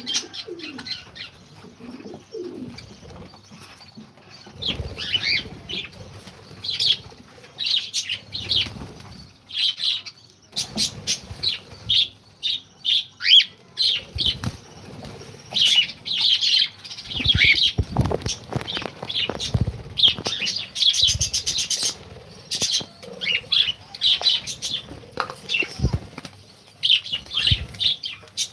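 A colony of cockatiels, lovebirds and pigeons: many short chirps and calls overlapping throughout, with bursts of wing flapping and low cooing near the start.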